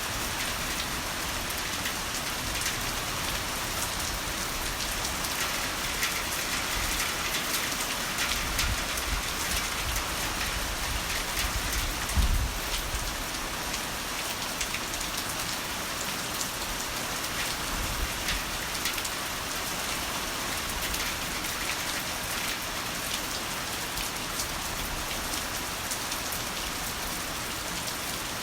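Heavy rain falling steadily, a dense even hiss of drops. Low thunder rumbles swell under it about a third of the way in and again later, with one short, louder low boom near the middle.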